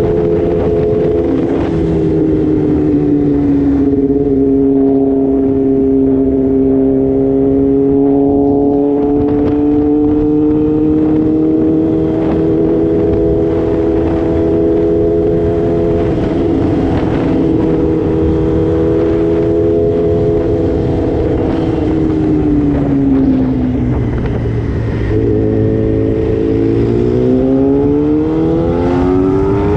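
Sport motorcycle engine running at steady riding revs, with wind buffeting over it. About two thirds through, the revs fall away, then climb again near the end as it accelerates.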